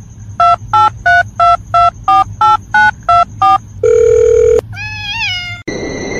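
Telephone keypad dialing ten digits in quick touch-tone beeps, each beep two tones together. Then a long steady beep, a short warbling chirp that rises and falls, and a loud steady hiss with a high whine.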